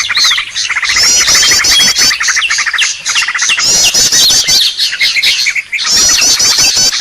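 Small songbirds' lure calls: loud, rapid series of high chirps and buzzy trills, repeating in phrases about a second long with short gaps, several calls overlapping.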